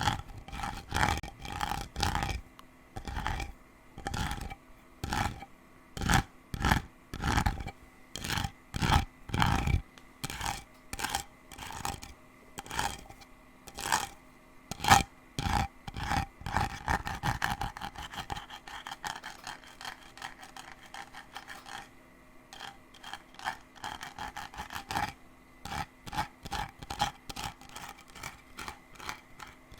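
Scratching and tapping on a candle container and its lid for ASMR. At first the strokes are distinct, about one or two a second, each with a short ringing note. Past the middle they turn into fainter, faster rubbing and then quick light ticks.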